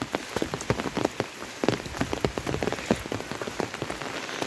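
Heavy monsoon rain falling, with many irregular drop impacts striking close by over a steady hiss.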